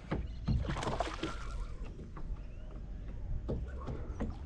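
A low steady rumble with a few brief knocks scattered through it.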